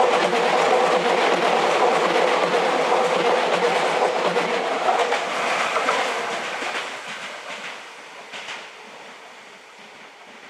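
A Meitetsu 5700 series four-car electric train running into the station over the rails, with a steady tone in its running noise. It slows and fades away about two-thirds of the way through as it comes to a stop.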